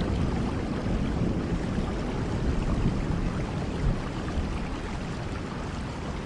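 Steady rain with a low rumble underneath that slowly fades.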